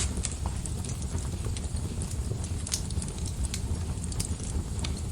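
Wood fire burning in a fireplace: a steady low rumble of flames with scattered sharp crackles and pops of burning wood.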